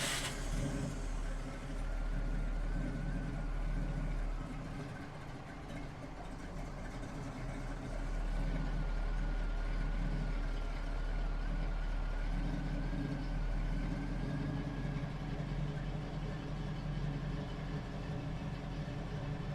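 Car engine idling steadily, with a faint wavering whine above the low hum.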